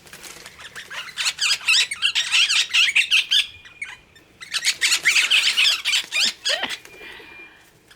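A flock of Australian ringneck parrots (twenty-eight parrots) calling in the trees: rapid, overlapping high chirps and squawks in two bouts, dying away about six and a half seconds in as the birds leave.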